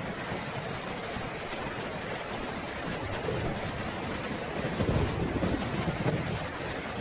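Steady rain falling, with a low rumble of thunder swelling up about two-thirds of the way in and lasting a second or two.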